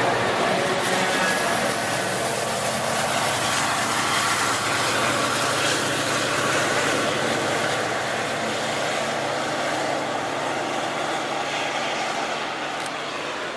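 MBTA commuter rail train pulling away: the diesel locomotive's engine drones steadily over wheel and rail noise, slowly fading as the train recedes.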